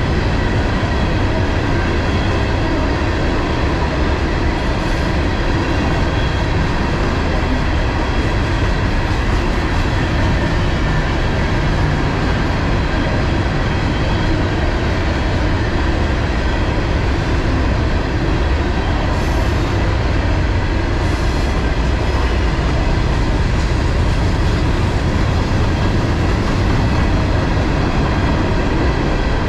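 A freight train of HERZOG ballast cars rolls past at a steady speed, its steel wheels on the rail making a continuous low rumble and clatter.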